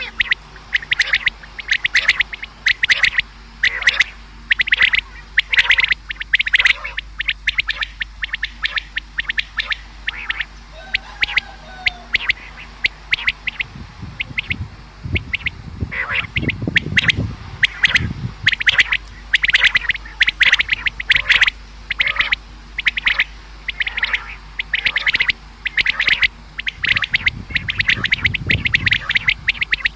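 Common quail calling over and over, short sharp notes coming in quick runs. A low rumble joins in about halfway through and again near the end, over a steady low hum.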